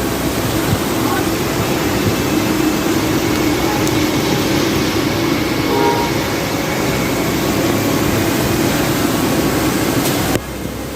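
Steady street traffic noise of vehicles running. The sound drops abruptly near the end.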